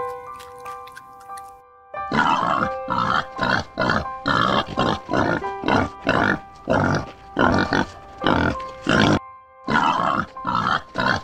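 Pigs grunting in a rapid series of short calls, about one or two a second, starting about two seconds in, with a brief pause near the end. Light background music with steady held notes plays underneath.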